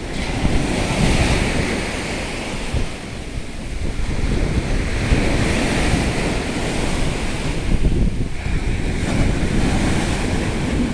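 Sea waves breaking on the shore, surging in twice, about a second and about five seconds in, with strong wind buffeting the microphone throughout.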